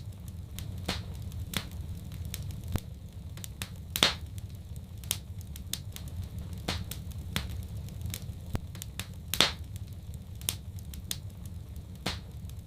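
Wood fire crackling steadily over a low rumble, with irregular pops and snaps; two louder pops come about four and nine seconds in.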